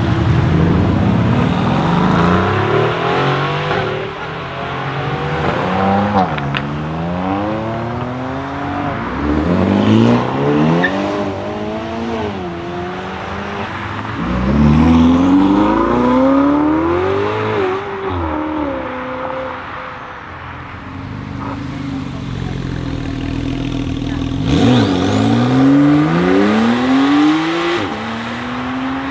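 Sports car engines accelerating hard, one car after another: each revs up in pitch and drops back at every upshift, in several separate runs.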